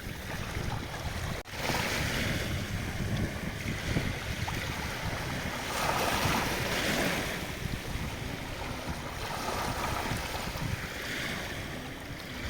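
Sea waves washing onto a beach, swelling and falling every few seconds, with wind buffeting the microphone.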